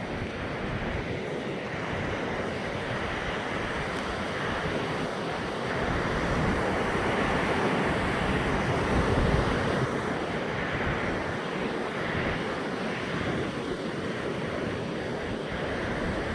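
Ocean surf rushing onto the beach with wind buffeting the microphone, a steady roar of noise that swells louder through the middle for a few seconds.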